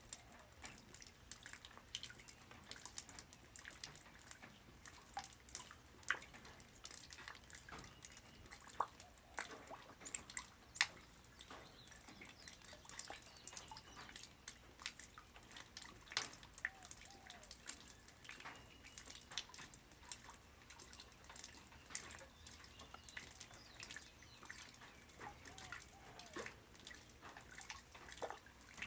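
Light rain falling on the ground: faint, irregular drops and drips ticking at an uneven pace.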